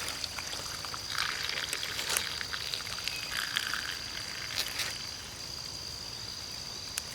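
Rainwater pouring and trickling out as potted plants are tipped to drain standing water, in several uneven splashy spills.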